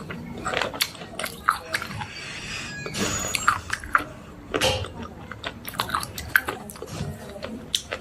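Slate pencils being bitten and chewed: a run of sharp, irregular crunches, several a second.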